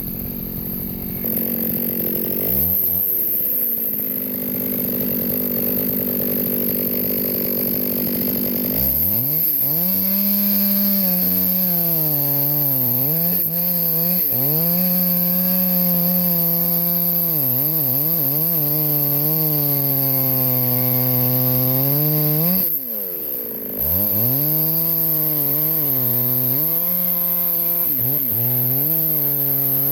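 Chainsaw cutting through a log. The engine runs steadily at first, then about nine seconds in it labours, its pitch sagging and recovering repeatedly as the chain bites into the wood. About 23 seconds in the engine note falls off briefly, then revs back up and keeps cutting.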